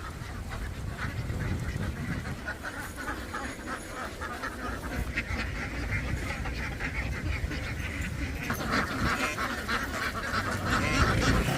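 A large flock of domestic ducks quacking in a dense, continuous chorus, getting louder from about eight and a half seconds in.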